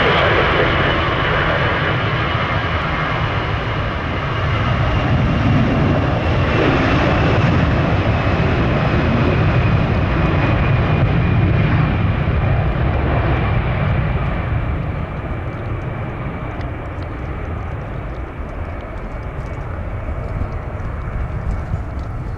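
Jet airliner engines running close by: a loud, steady rumble with a high whine that drifts slowly down in pitch, fading over the second half.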